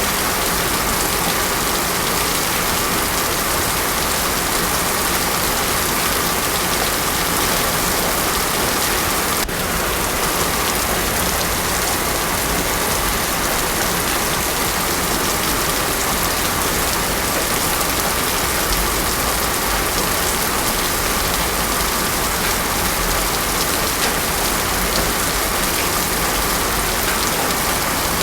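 Heavy rain falling steadily on a road surface, a dense even hiss with no thunder.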